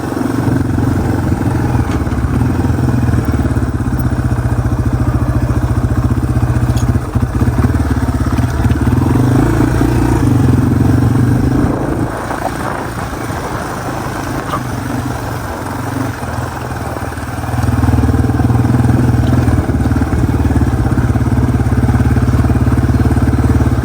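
Yamaha TW200's single-cylinder four-stroke engine running steadily under way. It eases off for a few seconds about halfway through, then picks up again.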